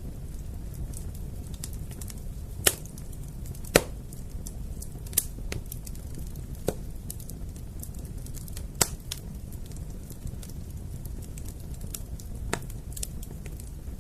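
Wood fire crackling: a steady low rush of burning with irregular sharp pops and snaps, a handful of them much louder than the rest.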